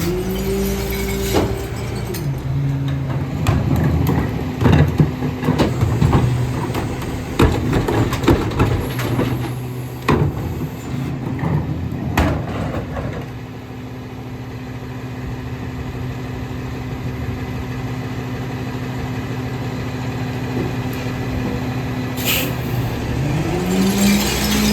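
Autocar ACX rear-loader garbage truck's diesel engine rising in speed, then idling steadily, while a run of clanks and clatter sounds over the first half as recyclables go into the hopper. Near the end there is a short hiss of air, and the engine speeds up again.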